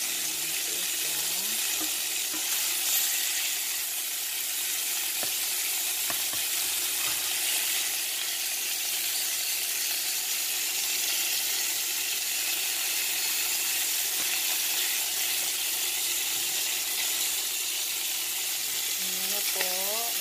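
Chicken pieces frying in oil in a nonstick pan, a steady sizzle, with a few light taps and scrapes of a spatula turning them.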